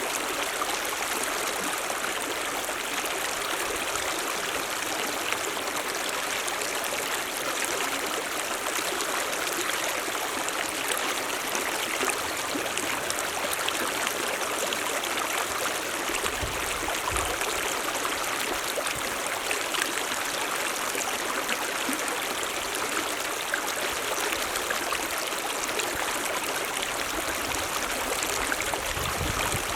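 Mountain stream running: a steady, even rush of splashing water.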